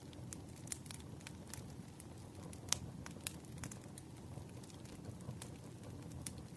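Wood fire crackling: a steady low rush of burning logs with irregular sharp pops, the loudest about two and three-quarter seconds in.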